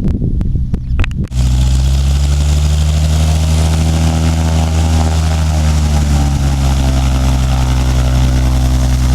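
A Cessna 182's piston engine running loudly and steadily, cutting in suddenly about a second in, its pitch rising and falling slightly. A few clicks come just before it.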